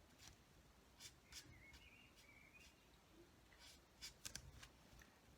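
Faint strokes of an alcohol colouring marker's nib drawn across card, a handful of short scratchy strokes in near silence.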